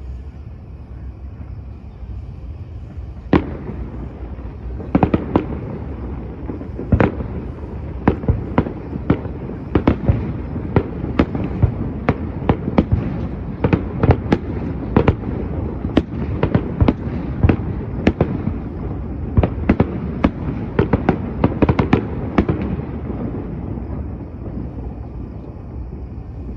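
Fireworks exploding: sharp bangs over a low rumble, a few at first and then coming rapidly, several a second, in a sustained barrage, easing off near the end.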